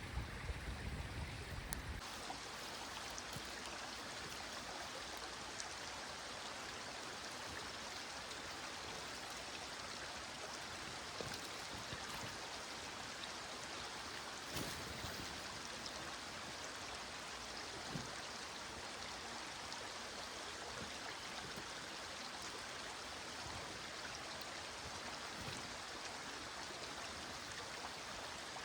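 Small stream flowing steadily, an even rushing babble, with a few faint scattered ticks. A low rumble under it stops abruptly about two seconds in.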